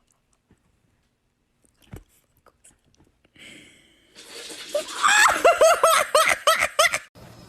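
High-pitched laughter in a quick run of repeated 'ha' bursts, about four a second, that starts about four seconds in and cuts off abruptly near the end.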